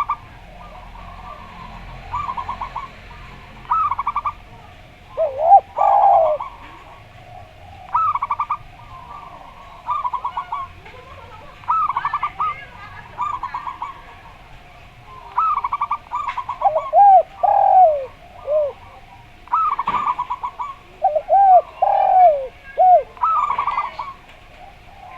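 Zebra doves (perkutut) repeating their rapid, staccato bubbling coo about every two seconds. A derkuku turtle-dove answers three times with slower, lower, swinging coos.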